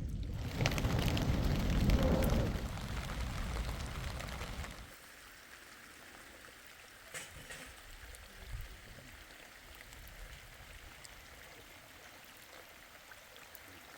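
Rain falling, loud and heavy at first, then dropping suddenly to steady softer rain about five seconds in, with a few scattered drip ticks.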